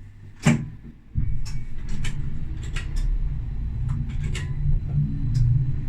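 Tram running, heard from the driver's cab: a loud sharp click about half a second in, then a low rumble that starts about a second in and builds, with frequent short clicks and knocks over it.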